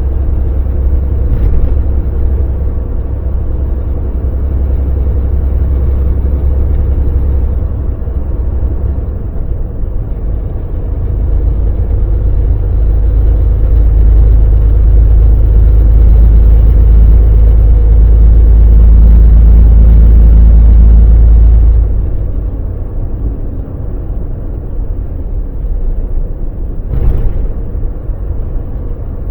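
Volvo VNL semi truck's diesel engine running under way with road rumble: a steady low drone that grows louder through the middle and drops off suddenly about three-quarters of the way through. A short click near the start and another near the end.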